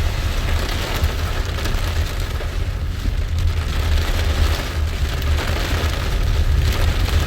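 Heavy rain pouring steadily, a dense hiss with a deep rumble underneath.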